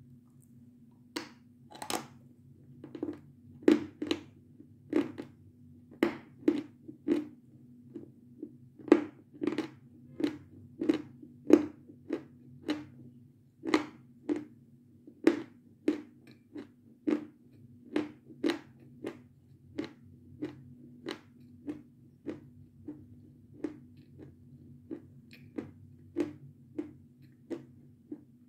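A person chewing a dry, rather hard meringue close to the microphone, with a run of sharp crisp crunches about twice a second that grow fainter near the end. A steady low hum runs underneath.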